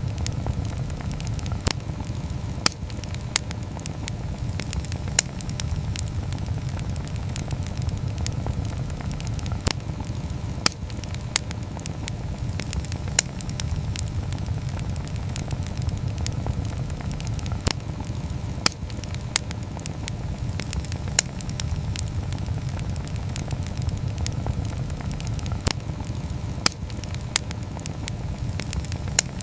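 Wood campfire burning, with a steady low rumble of the flames and sharp, irregular crackles and pops from the burning wood.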